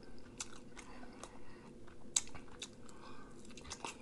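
A person chewing food close to the microphone, making irregular mouth clicks, with one sharper click about two seconds in.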